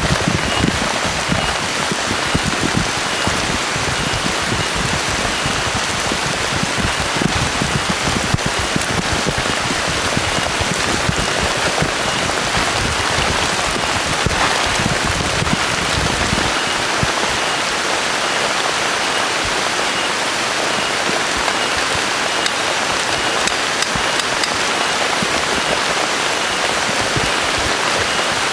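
Heavy rain falling steadily, an even hiss of drops on surfaces. A low rumbling drum of drops beneath it dies away about two-thirds of the way through.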